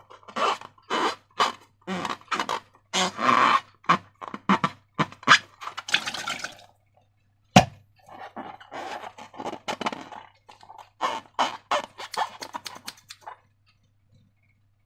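Wet slime squelching in quick, repeated squishes, about two a second, with one sharp snap about halfway through and a short lull near the end.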